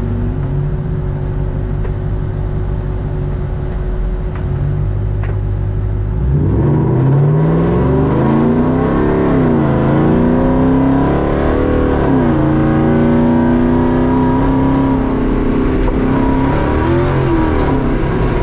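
A Żuk van's V8 engine, heard from inside the cab, idles steadily. About six seconds in it revs up and pulls away hard, its pitch climbing and falling back twice as it shifts up, then holding fairly steady.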